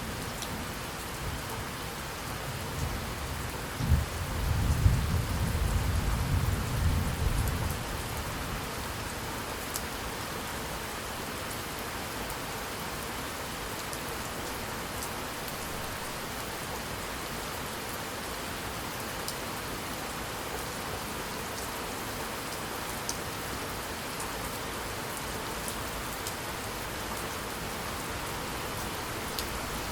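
Steady rain with a roll of thunder: a sharp crack about four seconds in, then a deep rumble that fades out a few seconds later, leaving the even hiss of the rain.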